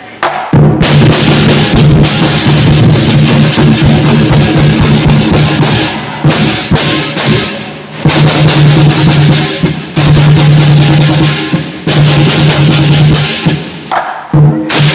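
Lion dance percussion: a large drum played in sustained rolls with crashing cymbals, starting abruptly and running in phrases of about two seconds with short breaks between them.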